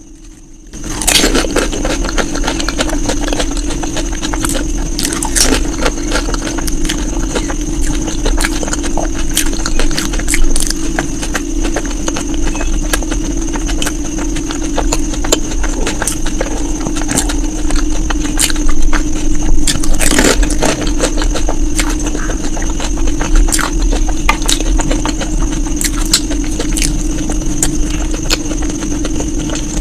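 Steady mechanical hum with many short clicks and crunches scattered over it, as of someone eating dahi puri and momo quickly.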